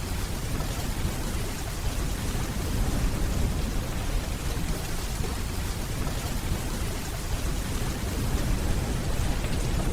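Steady rainfall, an even hiss, with a continuous low rumble of distant thunder underneath.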